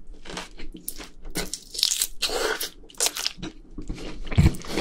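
Close-miked biting and chewing of a crispy seasoned fried chicken drumstick: irregular crunches of the fried coating in the mouth.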